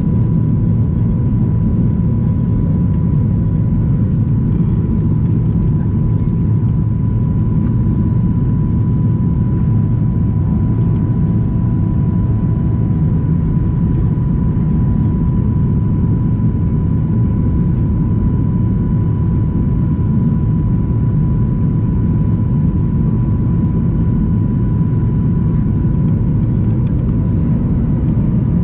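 Boeing 737-800 in the climb after takeoff, heard from the cabin: its CFM56-7B turbofans running at climb power, a loud, steady low rush of engine and airflow noise with a thin steady whine above it.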